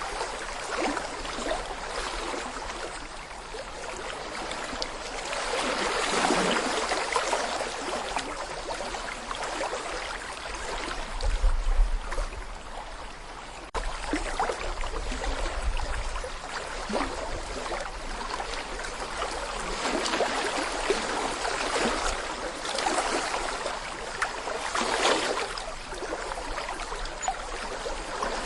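A small brook babbling over stones: steady water noise full of fine bubbling, swelling and easing every few seconds. A low rumble comes in about eleven seconds in and lasts a few seconds.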